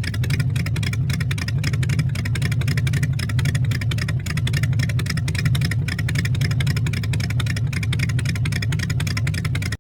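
Vehicle engine running steadily at a constant speed, with an even, rapid pulsing to its low drone.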